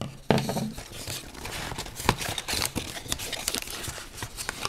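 Hands opening a small cardboard Lego box and handling what is inside: scraping, tearing and crinkling with many sharp taps and clicks, the loudest about a third of a second in.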